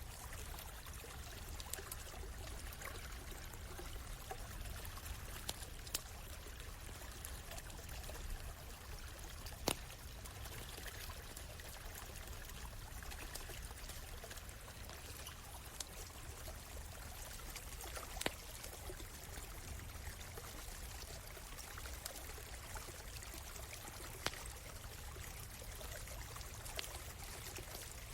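A stream flowing and trickling steadily, with a few sharp pops from a crackling campfire now and then, the loudest about ten and eighteen seconds in.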